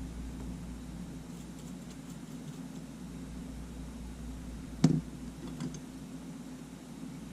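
A single sharp knock of a small tool or part set down on a workbench, with a fainter click about a second later, over a steady low hum.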